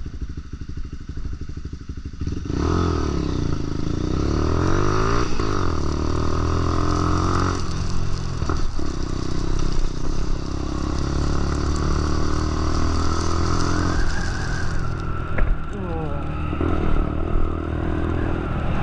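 Lexmoto LXR 125's 125cc single-cylinder engine putters quietly, then about two and a half seconds in pulls away loudly and revs up and down through the gears as the bike rides on, with tyre hiss and wind noise from the wet road.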